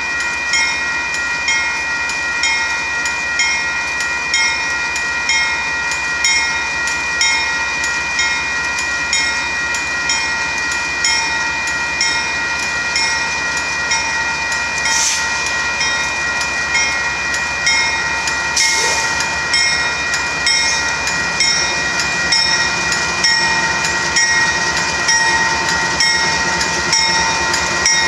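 Union Pacific gravel train's freight cars rolling past, with a regular clacking of wheels a little faster than once a second. Several steady high-pitched tones are held over it.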